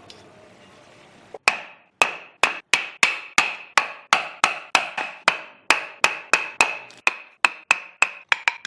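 A hammer striking repeatedly at about three blows a second, starting a little over a second in and quickening near the end, each blow ringing briefly.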